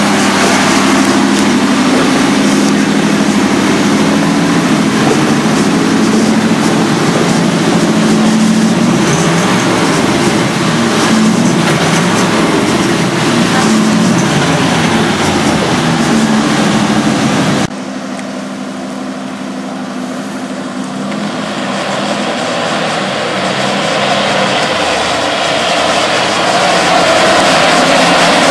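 1972 Ford F100's 302 V8 engine running with a steady drone. About 18 s in there is an abrupt cut to a quieter, thinner sound that swells again toward the end.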